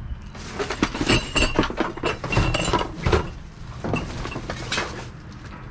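Discarded hard goods, glass among them, clattering and clinking together as they are rummaged through by hand in a dumpster: many quick knocks, some with a short bright ring.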